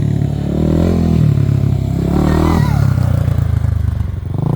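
A 400 cc dirt bike engine running and being revved, just push-started after refusing to start, possibly flooded. The revs rise and fall, swelling about a second in and again near the end.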